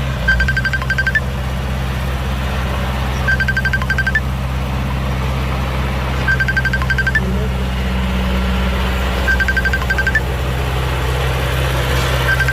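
A heavy engine running steadily while a vehicle's reversing alarm repeats a quick run of high beeps, about eight in under a second, once every three seconds.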